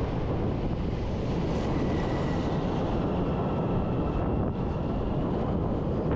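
Strong snowstorm wind buffeting the microphone, a steady rumbling rush, with a faint high whine underneath that fades out about halfway through.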